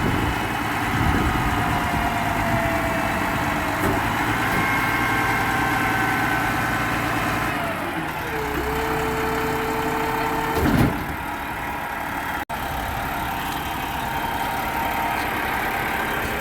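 Garbage truck's diesel engine idling, with a steady whine for about two seconds past the middle.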